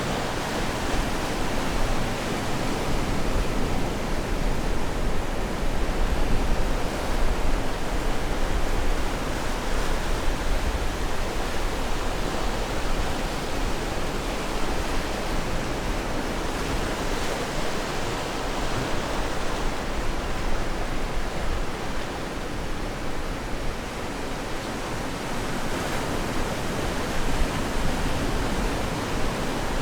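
Ocean surf washing onto the shore: a steady rush of waves that swells and eases slowly.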